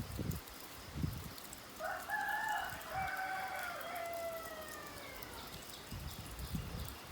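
A rooster crowing once, about three and a half seconds long: short opening notes, then a long note that falls slightly at the end. A faint steady hiss of rain runs underneath.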